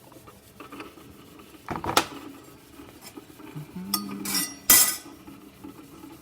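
Cup and metal espresso-machine parts clinking and knocking as they are handled, in a few separate strikes, the loudest just before the five-second mark.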